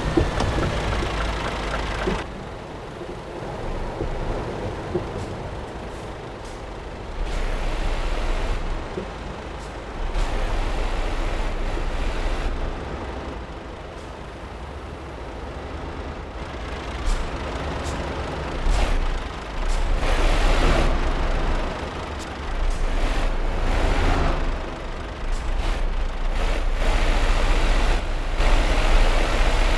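Scania R560 heavy truck's V8 diesel running, with spells of hissing that come and go every few seconds.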